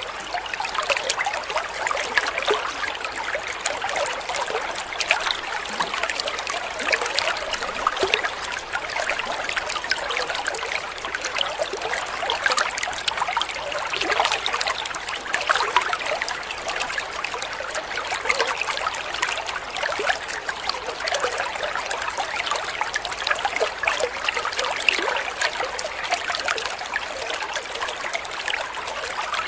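Shallow stream water trickling and splashing steadily, a continuous babble of small splashes.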